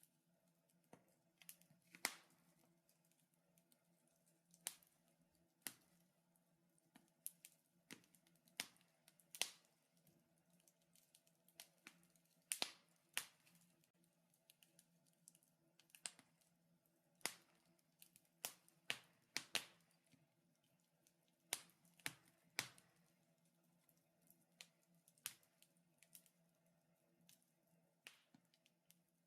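Wood fire crackling, with irregular sharp pops and snaps, a few much louder than the rest, over a faint steady hum.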